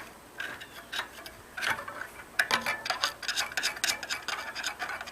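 A run of small sharp clicks and light scraping from hand work on the bicycle as a strap is taken off. The clicks are sparse at first and come thick and fast from about halfway in.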